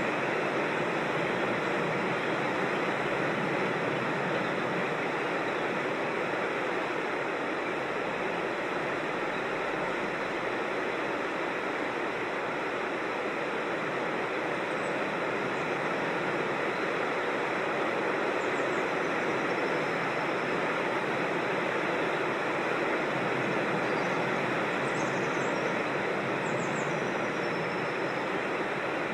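Creek water rushing steadily over rocks, with a few faint high bird chirps about halfway through and again near the end.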